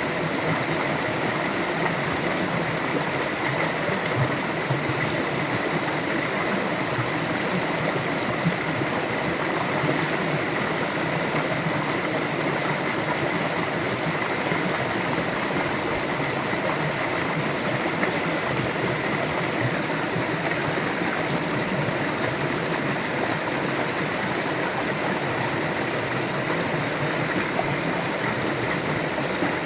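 A river flowing, a steady unbroken rush of water.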